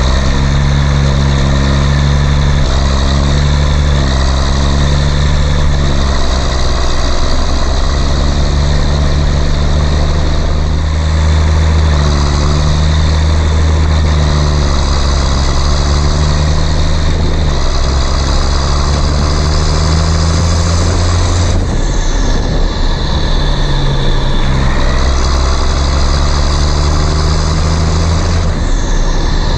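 Heavy vehicle engine running steadily at a low pitch, its note shifting slightly every few seconds.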